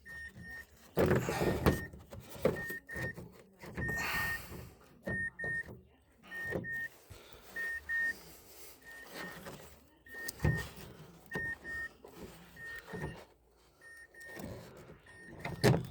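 A car's warning chime beeping in short double beeps about every second and a quarter, steady at one pitch, over irregular knocks and clatters of door parts being handled, the loudest clatter about a second in.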